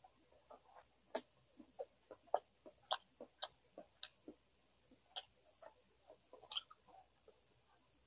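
A person eating, with irregular mouth clicks and smacks from chewing, about three a second and uneven in strength.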